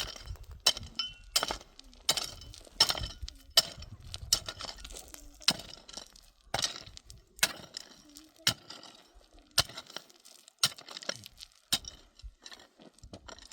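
Sharp clinking strikes, about one a second and somewhat uneven, some of them doubled, like a hard tool hitting stone or metal.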